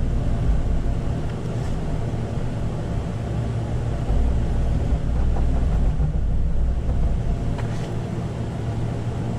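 A steady low rumbling hum, like a running motor, with a few faint light clicks.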